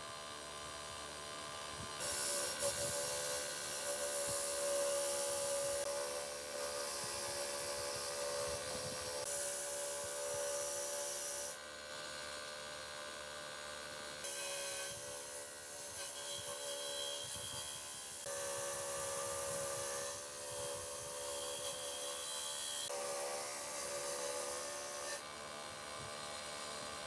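Abrasive rubbing and rasping on an engine part in stretches of several seconds, separated by short pauses, with a steady hum beneath.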